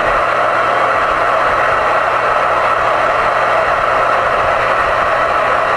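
Uniden Pro-520XL CB radio's receiver hissing with steady static through its external speaker, the band-limited rush of an open channel between transmissions. It sets in and stops abruptly.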